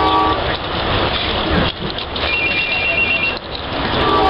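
Passenger train running, heard from inside the carriage: a loud, even rumble and rush. A held chord of steady tones stops about half a second in, and a short burst of rapid, high two-tone ringing comes about two and a half seconds in.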